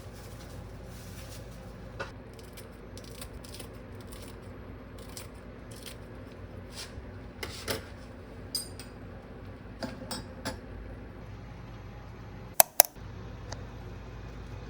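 Kitchen dishes and utensils being handled: scattered light clinks and knocks over a steady low hum, with a brief ringing clink about halfway through and two sharp clicks in quick succession near the end.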